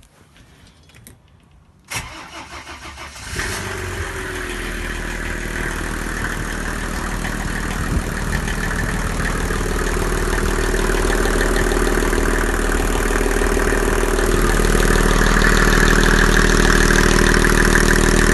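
Mercedes OM606 inline-six turbo-diesel with a mechanical injection pump, cranked about two seconds in; it catches after about a second and a half of cranking and then runs steadily, growing gradually louder.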